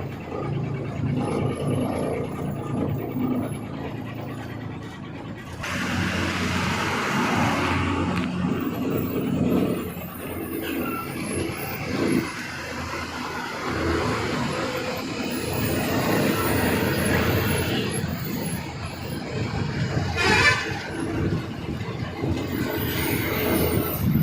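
Heavy Tata trucks' diesel engines running and labouring on a hill road. A hissing stretch comes about six seconds in, and a brief high wavering sound around twenty seconds in.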